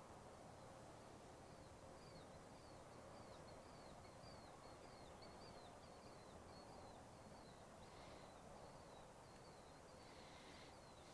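Near silence: faint outdoor hiss, with a bird's faint high chirps repeated about twice a second, each sliding down in pitch, stopping near the end.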